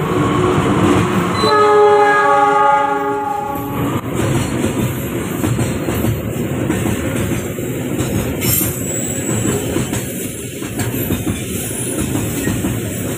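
Train horn sounding one blast of about two seconds, starting about a second and a half in, over a train passing close by with a steady rumble and clatter of wheels on the rails.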